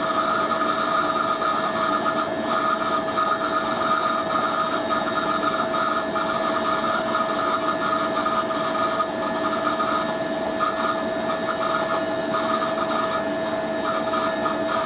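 Hoover A3060 washing machine in its spin, the motor running with a steady whine and a high squeal that comes and goes: the motor bearings are dry.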